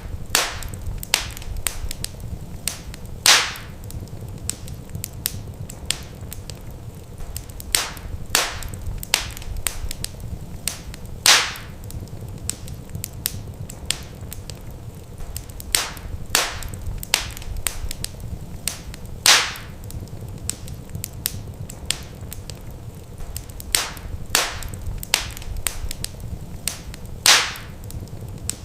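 Wood fire in a fireplace crackling, with frequent small snaps and a loud pop about every eight seconds, over a steady low rumble.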